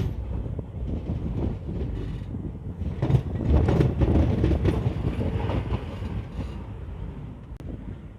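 Passenger train coach rolling along the track, with wheels clacking over rail joints and the carriage creaking. It is loudest in the middle and eases toward the end.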